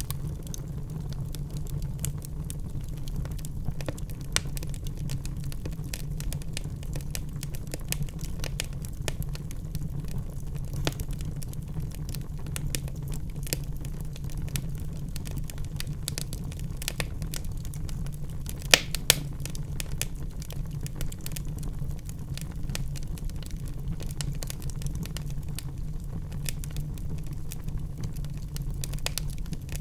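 Wood fire crackling in a fireplace: a steady low rumble of flames with frequent small pops and snaps, and two louder pops close together about 19 seconds in.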